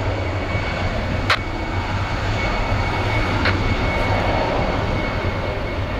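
Jet airliner engines running with a steady rumble and a thin, constant high whine. A single sharp click comes about a second and a half in.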